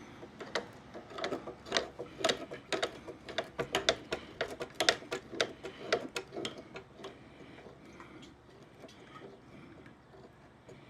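Channel-lock pliers clicking and knocking against a metal fuel-neck fitting as it is worked onto the tank: a quick, uneven run of sharp metallic clicks, several a second, that thins out after about seven seconds into a few faint taps.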